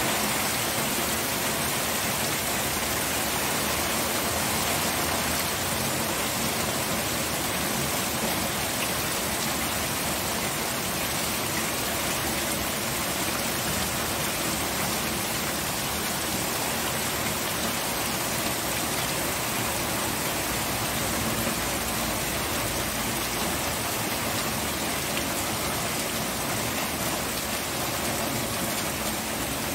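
Steady rainfall, a continuous even hiss of rain pattering on surfaces with no thunder or breaks.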